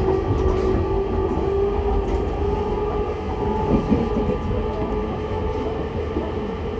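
Running sound inside a JR East E501 series motor car (MoHa E501-3): a steady traction-motor whine that slowly rises in pitch, over a low rumble of wheels on rail.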